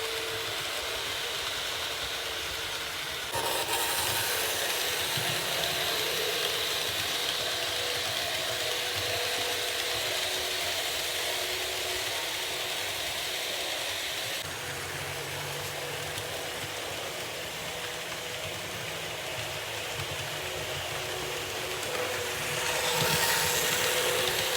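Märklin H0 model train running on the layout: a steady electric motor whir with wheel and track rattle, stepping suddenly louder a few seconds in and swelling again near the end.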